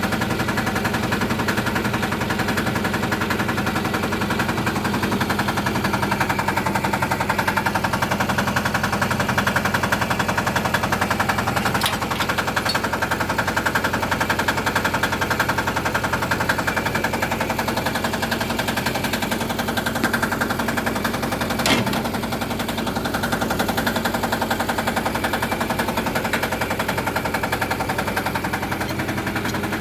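Small engine running steadily with a fast, even rattling beat, and one sharp click about 22 seconds in.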